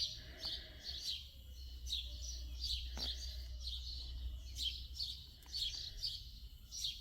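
Small birds chirping: a steady string of short, high chirps, with a single sharp click about three seconds in.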